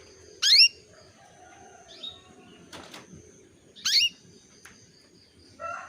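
Female canary giving short, loud, rising calls twice, about three and a half seconds apart: the call a hen canary uses to call a male. A faint chirp and a click fall between them, and a fuller warbling bird sound starts just before the end.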